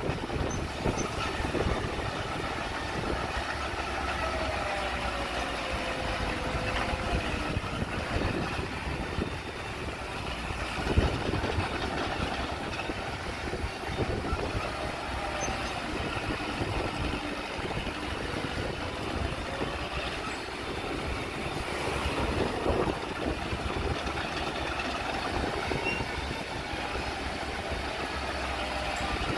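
Heavy earthmoving machinery at work: diesel engines running steadily with a dense mechanical noise, and a single sharp knock about eleven seconds in.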